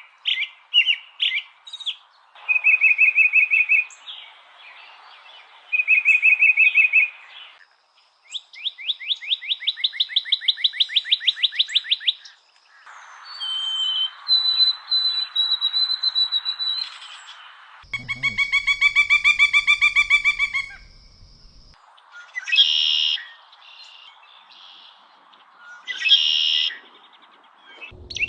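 Songs and calls of several different bird species played one after another, each a separate recording with its own background hiss. They include a short trill given twice, a long fast series of repeated rising notes, a rich buzzy trill, and two brief sharp outbursts near the end.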